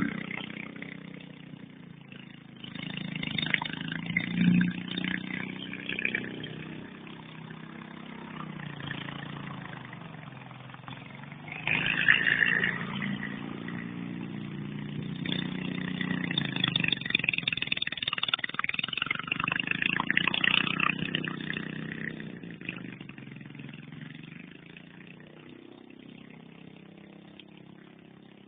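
Small go-kart engine running, its revs rising and falling in several surges, then fading steadily as it moves away near the end.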